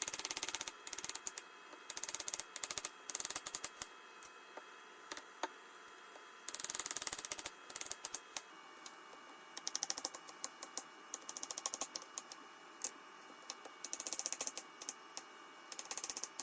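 Short runs of rapid, sharp mechanical clicks, each run lasting about half a second to a second, repeated many times with brief pauses between them.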